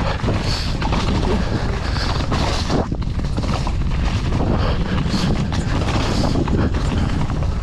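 Downhill mountain bike descending a trail at speed: a steady rush of wind over the microphone mixed with the bike and tyres rattling over rough ground.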